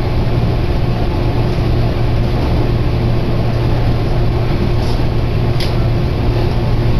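Fujikyu Otsuki Line electric train's steady running noise heard inside the carriage: a continuous low hum and rumble, with a couple of faint ticks about five seconds in.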